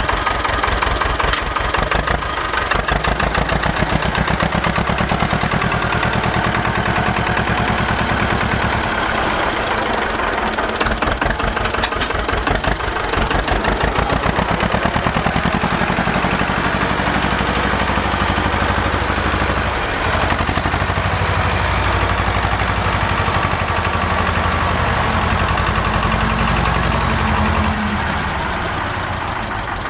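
Porsche-Diesel tractor's air-cooled diesel engine running with a fast, even beat, its level swelling and easing slightly now and then.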